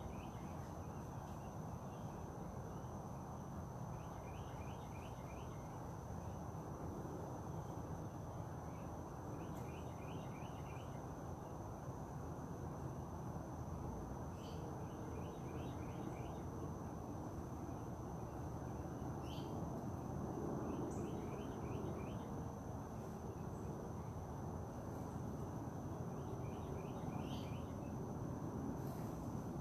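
Outdoor ambience: a bird repeating a short, quick run of five or six notes about every five or six seconds, over a steady high-pitched whine and a constant low rushing noise.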